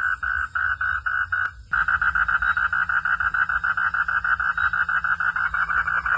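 A frog calling in a long, even series of pulsed notes, about four or five a second. After a brief break with a click about one and a half seconds in, the pulses resume roughly twice as fast. A steady low hum runs underneath.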